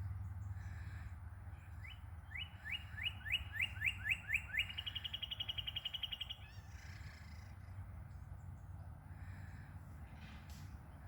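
A songbird singing one song: a run of clear falling whistled notes that speed up into a fast, even trill lasting about two seconds.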